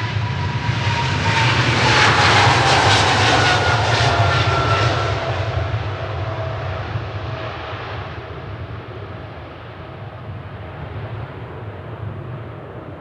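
Boeing 777-300ER's twin GE90-115B turbofans at takeoff power passing by, loudest a few seconds in. The engine whine slides down in pitch as the jet passes, then the noise fades away.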